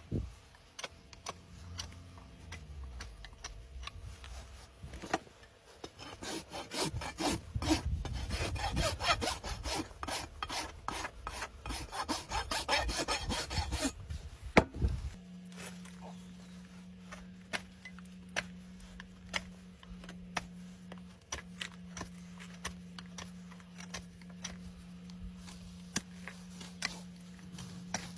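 A farrier's rasp filing a horse's hoof in quick, rough, repeated strokes, densest through the middle of the stretch. About halfway through the filing stops abruptly, leaving a steady low hum with scattered small clicks.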